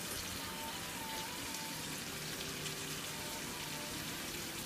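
Sliced pears and apples frying in a skillet as they caramelize, a steady sizzling hiss.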